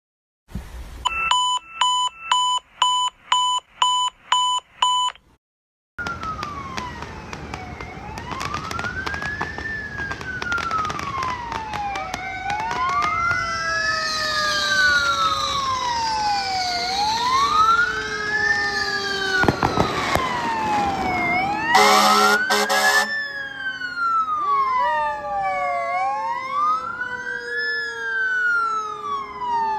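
Fire engine responding with its siren on: about eight short beeps, two a second, then an electronic wail rising and falling about every four seconds, with a second siren tone slowly winding down beneath it. A loud horn blast comes about 22 seconds in.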